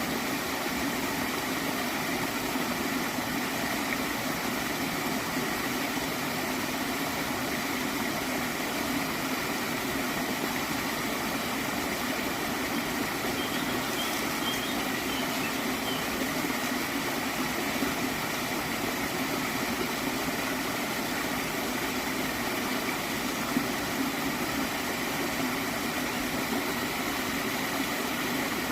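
Gently flowing stream water gurgling in a steady, unbroken wash.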